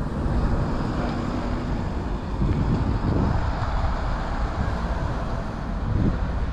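Outdoor street noise: wind rumbling on the microphone, mixed with traffic, swelling unevenly in gusts.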